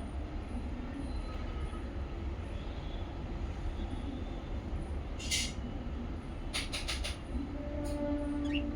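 A steady low rumble, with a few short, sharp high chirps from small pet parrots: one about five seconds in and a quick run of four near seven seconds.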